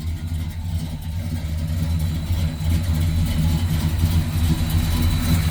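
1964 Chevrolet Impala's V8 engine idling steadily, running well.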